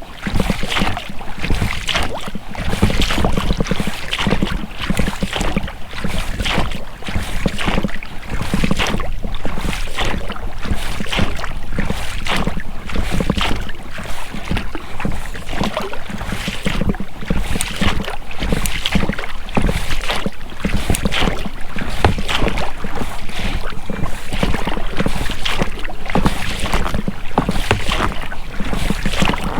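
Oars of an inflatable rowing boat dipping and splashing in river water, with the rubber rowlocks working, in a continuous irregular run of short splashes.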